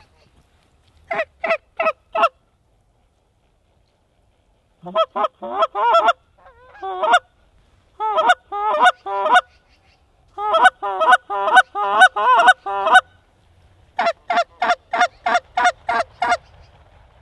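Mallard duck call blown in runs of loud, short hen quacks, four to ten notes to a run with pauses between. It is calling to a flock of mallards as they work toward the decoys.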